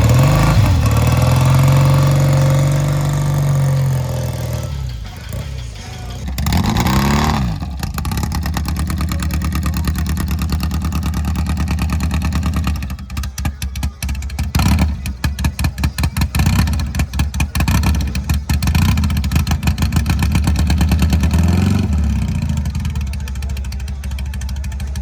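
Motorcycle engine running close by and revved: two rising-and-falling revs in the first few seconds, then a long stretch of quick, uneven throttle blips in the middle before it settles back to a steadier run.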